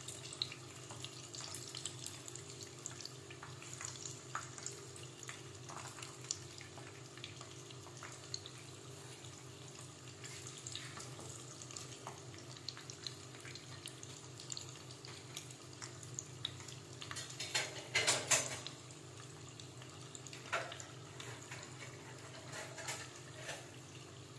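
Spring-roll-wrapped glutinous rice rolls deep-frying in hot oil in a pot: a steady sizzle with scattered crackles, and a brief louder burst about 18 seconds in.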